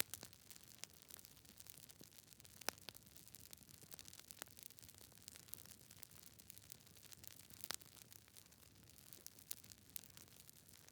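Campfire crackling: burning wood gives off frequent irregular sharp snaps and pops over a soft hiss, with a few louder pops about a third of the way in and again about two thirds in.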